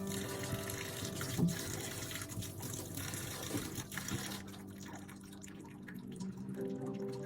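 Water running from a tap into a sink, shut off about four seconds in, with soft background music.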